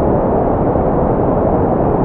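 Synthetic white noise: a loud, perfectly steady hiss without pitch or rhythm, dull in tone with little high end.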